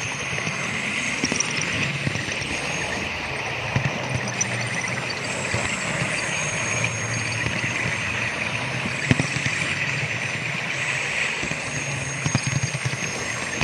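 Model train running steadily around a layout: a continuous hum and rumble with a few sharp clicks scattered through it.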